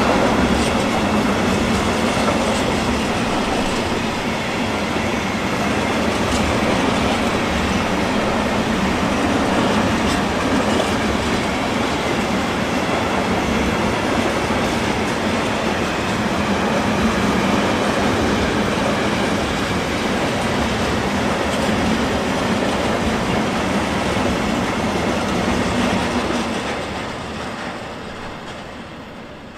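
A train rolling past at close range, its wheels clattering steadily over the track, fading away over the last few seconds as it passes.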